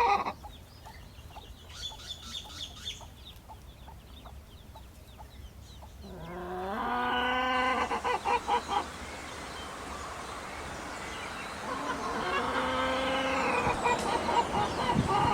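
Chickens clucking, with longer drawn-out calls about six seconds in and again near the end, and a quick run of short clucks about eight seconds in.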